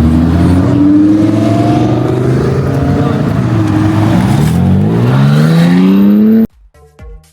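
Car engine accelerating hard, its pitch climbing early on and again more steeply over the last couple of seconds before the sound cuts off abruptly about six and a half seconds in.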